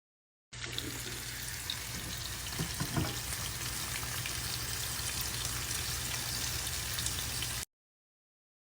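Steady rain falling: an even hiss with a few faint pattering ticks, starting about half a second in and cutting off suddenly near the end.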